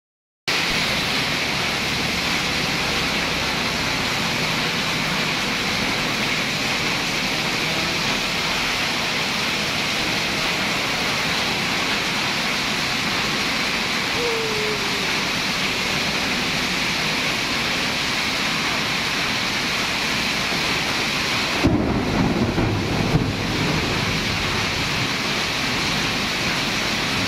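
Heavy tropical downpour: a dense, steady hiss of rain pouring onto a street. Near the end, a low, uneven rumble swells for about two seconds.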